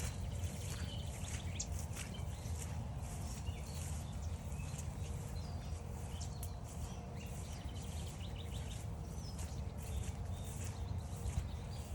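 Footsteps on a trail at a walking pace over a steady low rumble, with several small birds chirping and calling throughout.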